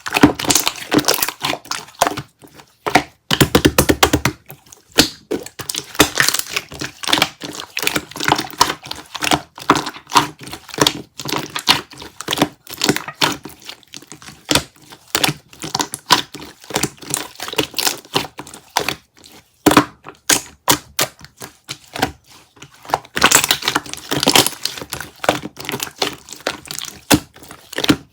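Dense, irregular clicking, tapping and crinkling at close range, with a short low buzz about three and a half seconds in.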